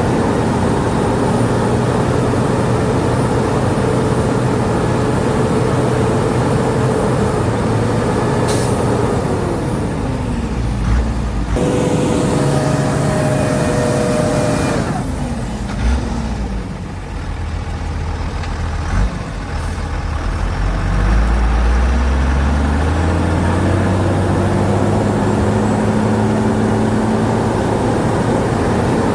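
Heavy diesel earthmoving machinery engine working: it runs steadily, drops in revs about a third of the way in, dips again around the middle, then revs back up over several seconds.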